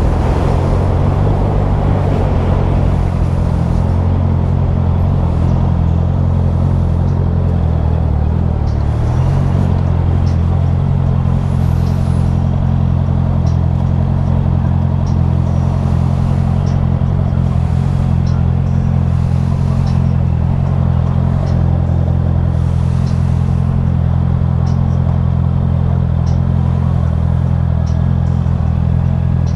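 Motorcycle engine running at a steady speed under way, over a steady rush of wind and road noise; the engine note shifts briefly about nine seconds in.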